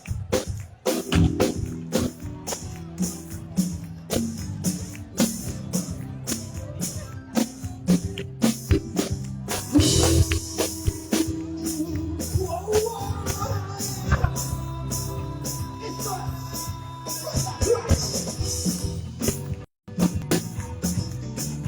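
Live band music: an instrumental passage with a steady, fast drum-kit and tambourine beat under sustained chords and a gliding melody line in the middle. The sound cuts out for a split second near the end.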